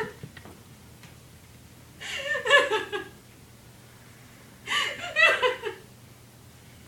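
Two short bursts of a person's voice, about two and five seconds in, each lasting about a second.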